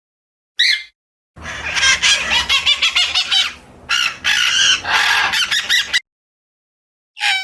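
Bird calls: a single short chirp, then a few seconds of dense, rapid chattering and clucking calls over a low rumble that cuts off suddenly, and one more short chirp near the end.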